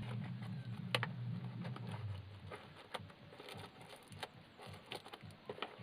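Microphone box and packaging being opened and handled: a few sharp clicks and light rustles over a low steady hum.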